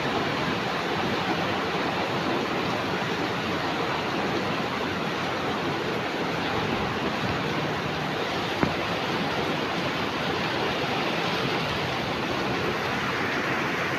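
Heavy rain pouring down as a steady, even hiss, with a single sharp click about eight and a half seconds in.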